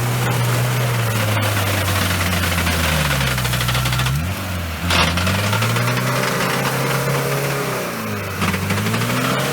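Off-road vehicle's engine working hard in deep mud, its revs sagging and climbing back up twice, with a sharp knock about five seconds in.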